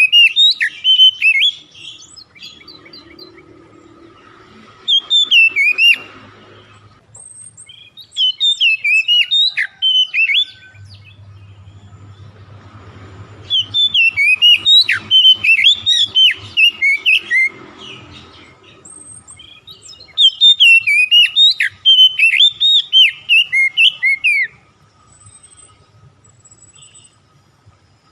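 A songbird singing loud bursts of rapid, sharp chirps and whistled notes, about five phrases separated by short pauses, the longest running several seconds. A faint steady hum lies underneath.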